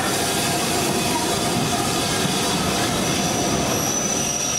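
Steam-hauled heritage train rolling through a station: a steady noise of coaches running over the rails, with a thin, high wheel squeal starting about three seconds in.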